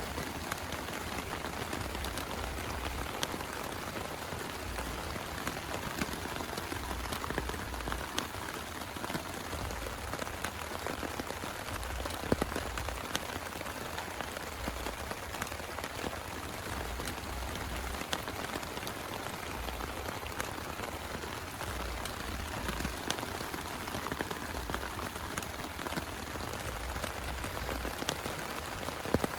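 Heavy rain falling steadily, with many separate drop hits heard through the wash and one sharper hit about twelve seconds in.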